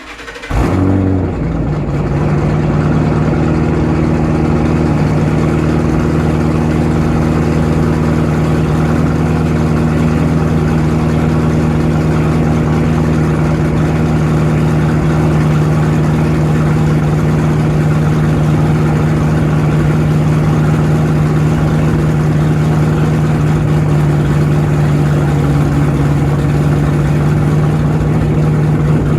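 2010 Ford Mustang GT's 4.6-litre V8, fitted with hot rod cams and an SLP Loudmouth exhaust, starting from cold. It fires up, flares briefly in the first second or two, then settles into a steady idle.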